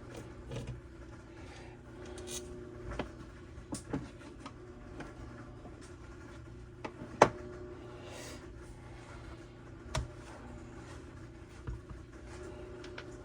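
Scattered clicks and taps of a screwdriver and small metal and plastic parts being handled while a string trimmer's carburetor and fuel system are taken apart, with one sharp loud click about seven seconds in. A steady low hum runs underneath.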